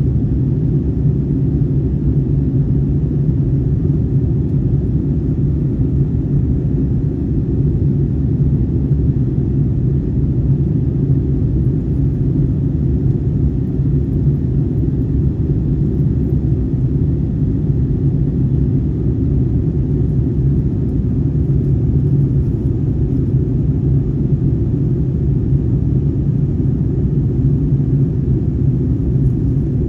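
Steady low rumble of a jet airliner's engines and airflow, heard from inside the passenger cabin in flight.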